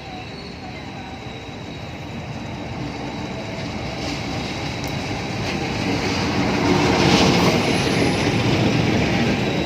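Train running on the rails: a rumbling rail noise that grows steadily louder over about seven seconds and then stays loud, with a few faint clicks.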